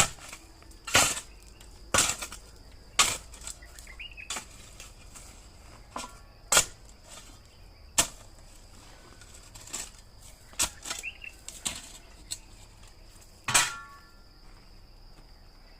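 A series of sharp knocks or strikes, about one a second at first and then more spaced out, over a steady high drone of crickets.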